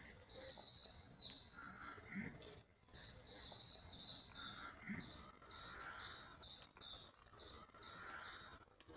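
A songbird singing: two quick phrases of rapidly repeated high notes, then a slower run of separate notes.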